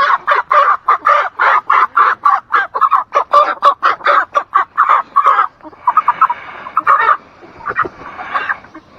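A meat chicken squawking in a rapid run of loud calls, about four a second, for about five seconds, then a few scattered squawks. This is a bird being caught and handled for slaughter.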